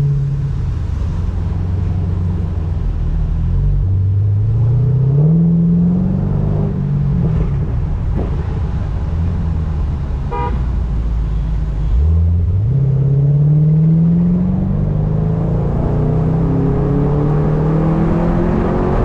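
Car engine accelerating twice, its pitch climbing and then dropping back at each gear change, with a short car horn toot about ten seconds in.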